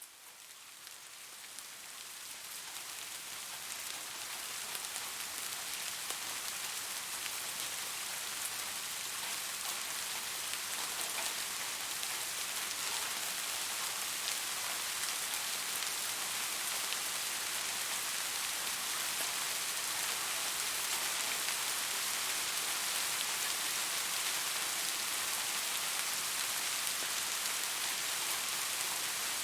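Steady rain falling on a surface, a dense even hiss with fine drop patter, fading up over the first few seconds and then holding steady.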